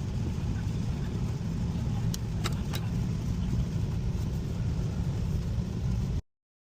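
Air handling unit running after being powered back up: a steady low rumble from its blower, with a few faint clicks, cutting off abruptly about six seconds in.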